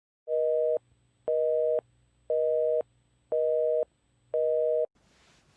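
Telephone busy signal: five evenly spaced beeps of a steady two-tone pitch, each about half a second long, one a second, cutting off abruptly after the fifth.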